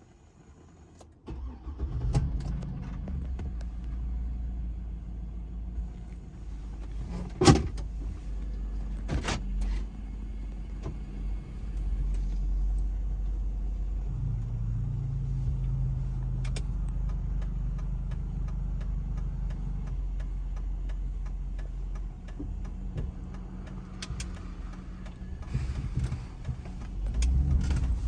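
Cadillac Escalade's 6.0-litre Vortec V8 starting about a second in, then idling steadily. One sharp knock stands out a few seconds after the start.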